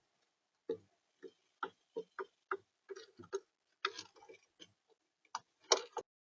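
A run of irregular, sharp taps and knocks on a bird feeder, close to the feeder camera's built-in microphone. There are about fifteen of them, and the loudest come near the end.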